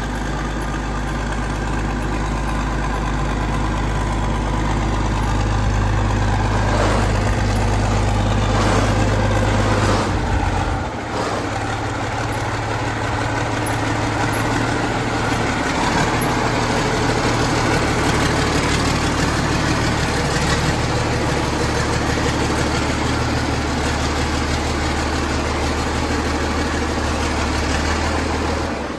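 Tractor engine running steadily at a low idle, its low hum shifting in pitch about eleven seconds in.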